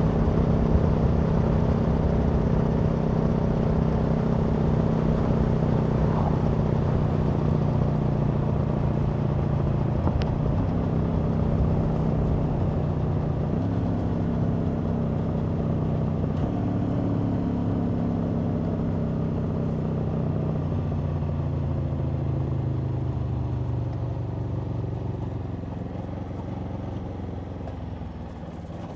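Aprilia Tuono V4 motorcycle's V4 engine and exhaust under way at a steady pace, with wind rush. The engine note jumps up twice, about fourteen and sixteen seconds in, as with downshifts. It then falls slowly and grows quieter as the bike slows.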